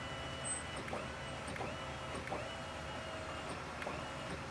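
Tow truck's hydraulic wheel-lift whining as the disabled truck is raised, in a run of short pulses about every 0.7 s, each rising briefly and then holding, with small clicks between them.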